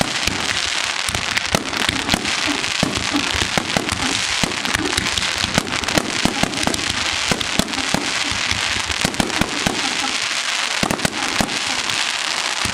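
Consumer fireworks going off in a dense, continuous run of sharp pops and crackling.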